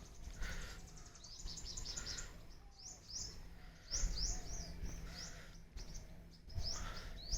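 Birds chirping: runs of short, high chirps that each slide downward, several a second, coming in bursts, over a low rumble.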